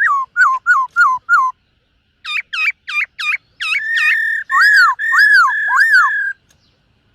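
Black-throated laughingthrush singing loud whistled phrases. First comes a quick run of six short falling notes, then after a brief pause a run of swooping U-shaped notes, and finally a held steady whistle with rising-and-falling notes over it, which stops near the end.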